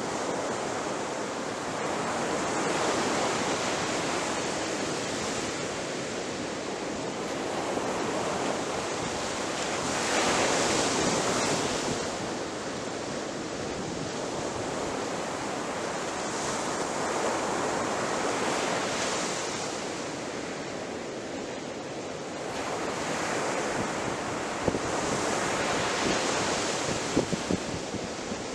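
Ocean waves breaking on the shore, a steady rush of surf that swells and eases every few seconds, loudest about a third of the way in, with a few sharp crackles near the end.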